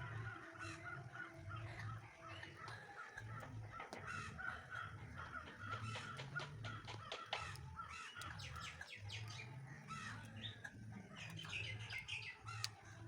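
Birds calling, with crows cawing among the chirps, over scattered sharp crackles of burning logs and a low, uneven rumble.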